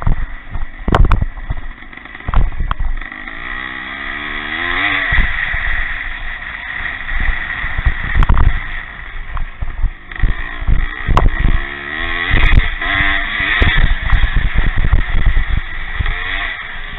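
Pre-65 motocross motorcycles racing: engines revving up and down as bikes accelerate and pass, one clearly climbing in pitch about three to six seconds in, with repeated irregular low thuds throughout.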